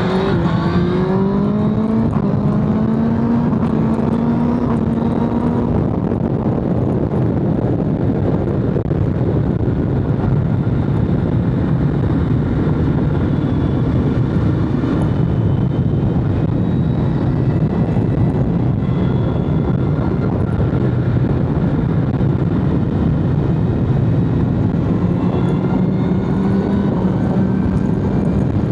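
BMW S1000RR inline-four engine pulling up through the revs in the first few seconds, then running at a steadier speed under a dense rush of wind and road noise, and climbing in pitch again near the end.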